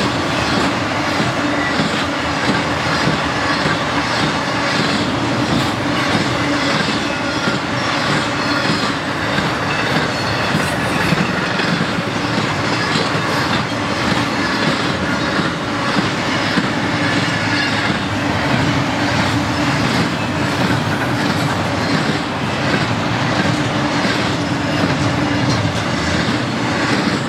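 BNSF intermodal freight cars, trailers on flatcars and double-stack well cars, rolling past at speed: a steady loud rumble of wheels on rail with a regular clicking as the wheels cross rail joints.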